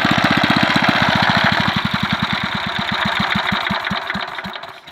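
Villiers Mark 10 petrol engine running with a steady beat of firing strokes, which slow down, fade and stop about four and a half seconds in as the engine runs down to a halt.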